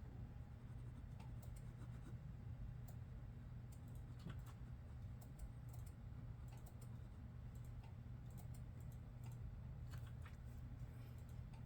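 Computer keyboard typing, faint and irregular: scattered key clicks in small clusters over a steady low hum.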